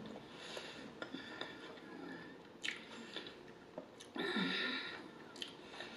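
A person chewing a mouthful of chili cheese hot dog with the mouth closed, soft wet chewing with a few small sharp clicks. About four seconds in comes a short hummed 'mmm'.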